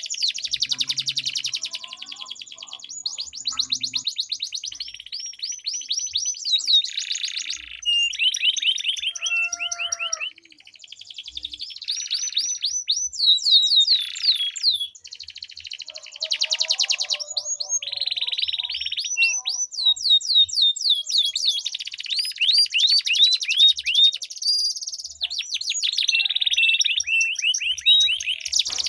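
Domestic canaries singing long rolling trills of rapidly repeated high notes and quick sweeps, broken by short pauses. The song dips briefly about ten seconds in.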